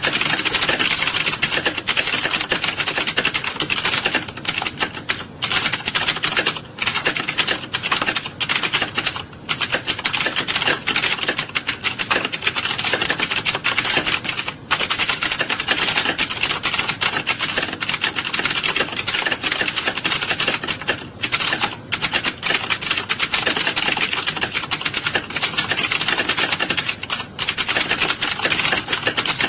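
Many computer keyboards being typed on at once: a dense, continuous clatter of keystrokes, with a few brief lulls.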